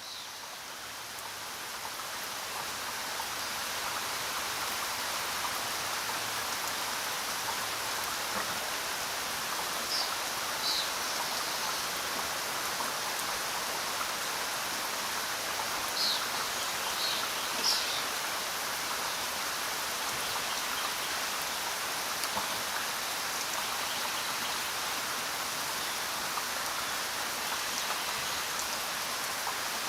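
Steady rain falling, an even dense hiss of drops that fades in over the first few seconds. A few brief high ticks or chirps stand out around the middle.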